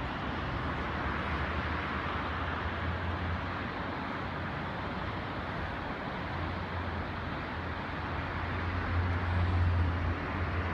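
A car driving along a road: a steady hiss of road and wind noise over a low engine hum, the hum growing louder about nine seconds in.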